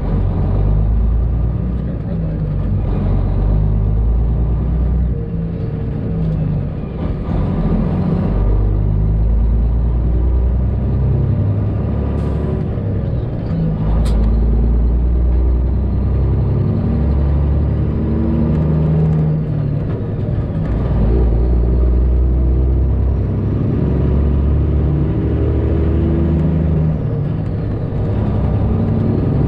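Straight-piped Detroit Diesel Series 60 engine of a long-hood semi truck pulling under way. Its pitch holds, then drops and climbs again as it goes through the gears, with a couple of short clicks in between.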